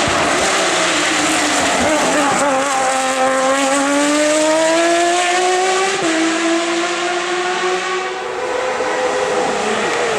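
Hill-climb race car's engine under hard acceleration. The revs dip about two seconds in, then climb steadily, drop sharply with an upshift about six seconds in and climb again. The sound eases off a little near the end.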